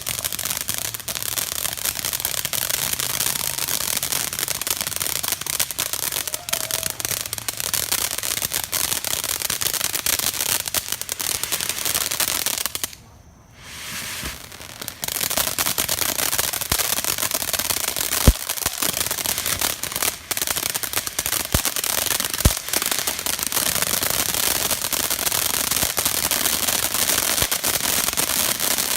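Consumer fireworks crackling in a dense, continuous rattle of small pops. It breaks off briefly about halfway through, then resumes, with a few louder single bangs standing out in the second half.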